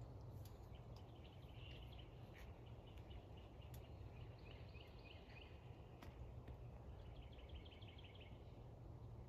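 Faint small birds chirping, with a quick trill of about ten notes near the end, over a steady low background rumble; a few soft clicks.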